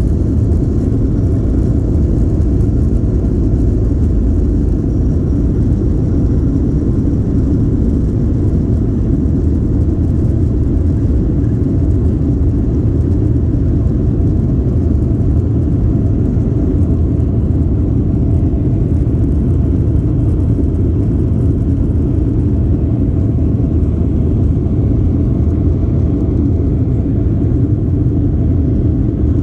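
Steady low rumble of an airliner's engines and airflow heard from inside the passenger cabin, with a faint steady hum above it.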